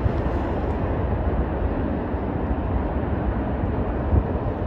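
Train rolling past: the steady noise of rail cars on the track.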